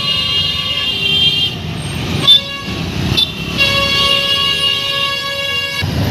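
Vehicle horns honking in stalled traffic: one long blast that stops about a second and a half in, and another from about three and a half seconds until near the end, over a low engine rumble. A sharp knock about two seconds in is the loudest moment.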